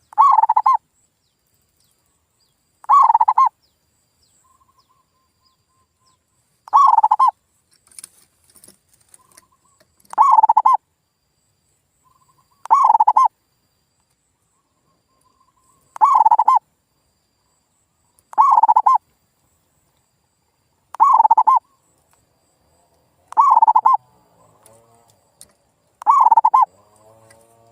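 Male zebra dove (perkutut) singing its short cooing call, repeated ten times about every three seconds.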